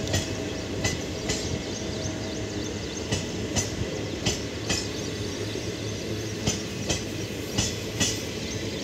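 Indian Railways express passenger coaches rolling past close by: a steady rumble with sharp clicks, mostly in pairs, as the bogie wheels cross rail joints.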